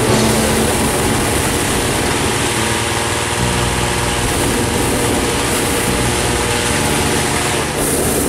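Small petrol engine of a balloon inflator fan running steadily at speed, blowing air into a hot-air balloon envelope. Near the end a burner blast begins, adding a rushing hiss.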